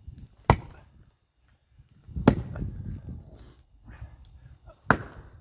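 Axe striking and splitting firewood logs: three sharp chops about two seconds apart.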